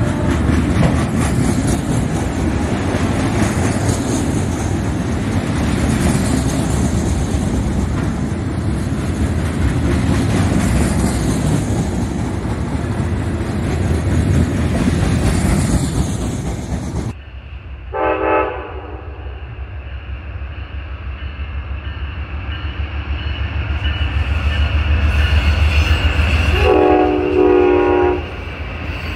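A long freight train of container-carrying flatcars rolls past with loud, steady wheel-and-rail noise. After an abrupt cut, a passing Amtrak double-deck passenger train runs by more quietly, and a train horn sounds twice, a short blast and then a longer one near the end.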